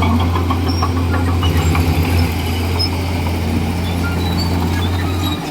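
Komatsu D41E bulldozer's diesel engine running steadily with a deep drone, easing off sharply right at the end.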